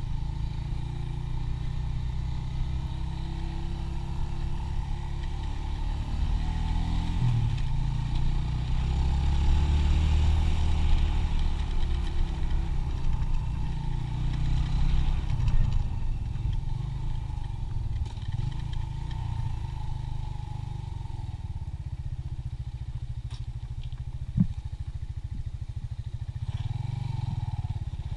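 125cc motorcycle engine running while riding, its pitch wavering with speed, over heavy wind rumble on the microphone. One sharp knock sounds near the end.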